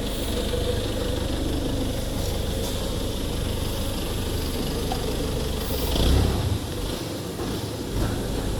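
Steady low machinery hum, with a brief low thump about six seconds in.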